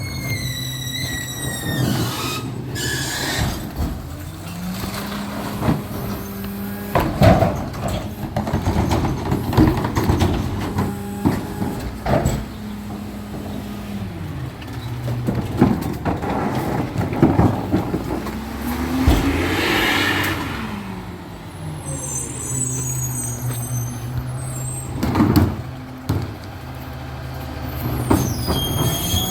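Recycling truck's diesel engine running and revving up for several seconds, then dropping back, with clanks and bangs of the collection mechanism and a hiss of air partway through.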